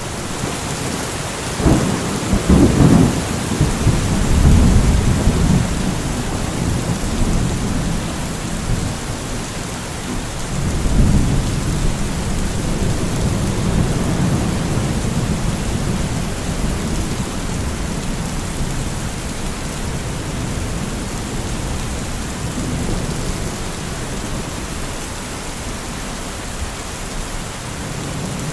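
Steady rain falling, with thunder rumbling low underneath; the loudest rolls of thunder come about two seconds in and again about eleven seconds in, then die away into the rain.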